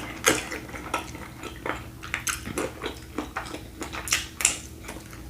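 A person chewing and biting food close to the microphone: irregular wet clicks and crunches from the mouth.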